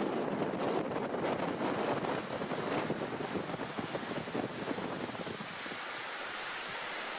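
Wind rushing over the microphone as a steady noise, with irregular light rustles and ticks through the first few seconds that then settle into an even hiss.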